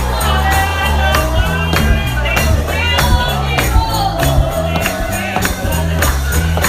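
Live gospel music: voices singing over a bass line and a steady beat of percussion with a tambourine.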